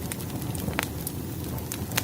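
Firewood burning in a fireplace: a steady low rumble of flames with scattered sharp crackles and pops, one louder pop a little under a second in and another near the end.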